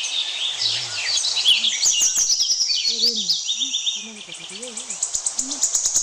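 Several forest birds calling at once: rapid runs of high chirps and trilled notes overlapping throughout, busiest near the end.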